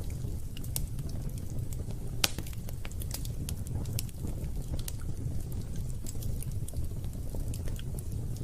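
Wood fire crackling: irregular sharp snaps and pops over a steady low rumble, with one louder pop a little over two seconds in.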